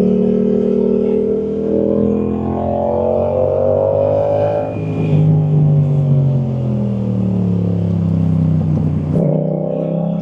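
Yamaha MT-07's parallel-twin engine through a Willy Made Firetong aftermarket exhaust, rising in revs, then dropping with a gear change about four and a half seconds in. It falls again as the throttle closes, with an abrupt break in the note near the end.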